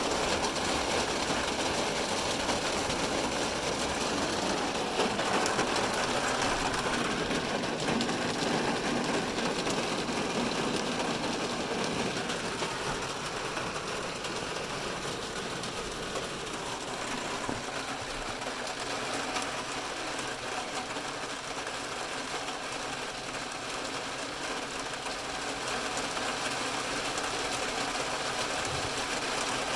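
Heavy rain drumming on a car's roof and windows, heard from inside the car as a dense, steady patter. It eases slightly partway through and picks up again near the end.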